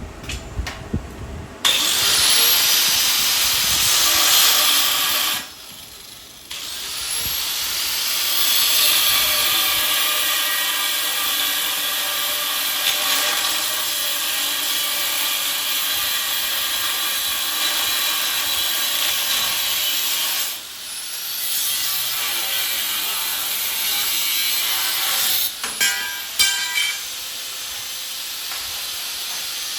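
A power tool's abrasive cut-off wheel cutting metal in long runs: it stops briefly twice and spins back up each time with a rising whine, with a few sharp clicks near the end.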